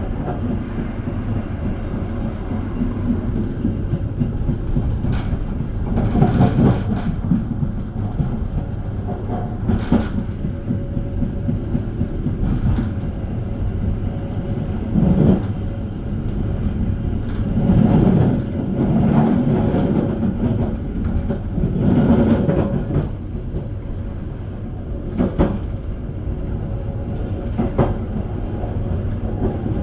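KA Argo Bromo Anggrek express train running at speed, heard from a rider's seat: a steady low rumble with short louder knocks from the wheels every two to three seconds.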